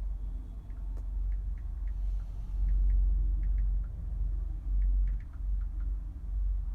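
Wind buffeting the microphone: a low rumble that swells and dips irregularly, with faint short high ticks scattered through it.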